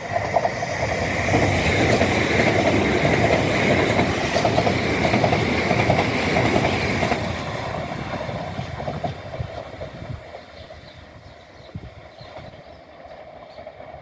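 Southern Class 377 Electrostar electric multiple unit running past, its wheels clattering over the rail joints. It fades away after about eight seconds.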